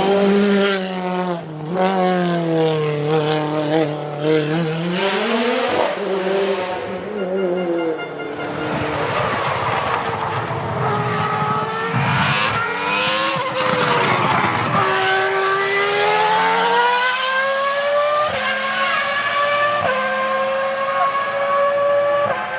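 Nissan 370Z's 3.7-litre V6 engine being driven hard, its pitch rising and falling as it revs up and backs off. Tyres squeal in the middle, and near the end the engine pulls steadily upward through quick gear changes, each a sudden small drop in pitch.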